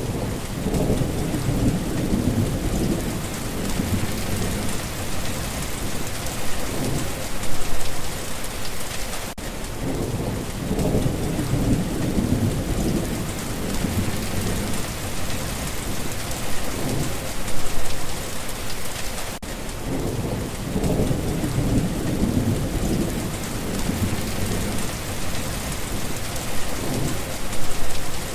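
Steady rain with low rolls of thunder that swell and fade, recurring about every ten seconds.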